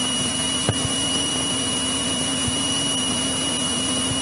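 Continental O-300-D six-cylinder engine and propeller of a 1963 Cessna 172E droning steadily in cruise, with a steady high-pitched whine over it and a single click about two-thirds of a second in.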